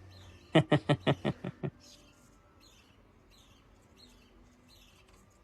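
Pet parrot giving a quick run of about eight short, loud chirps half a second in, then faint high chirps repeating about every half second. The bird is starting a courtship regurgitation display.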